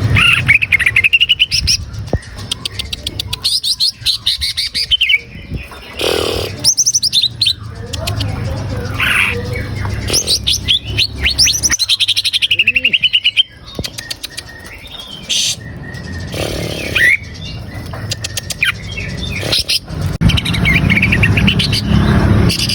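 Cucak ijo (greater green leafbird) singing loudly and almost without pause: a fast, varied run of sweeping whistles, chirps and rapid rattling trills, the full lively song used as a lure to set other songbirds singing. A steady low hum runs underneath.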